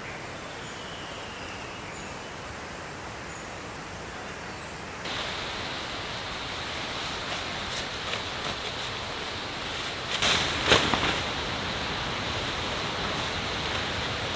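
Steady rain falling, a continuous hiss that jumps louder at a cut about five seconds in. A few faint bird chirps sound in the first seconds, and a short cluster of sharp crackling hits comes about ten seconds in.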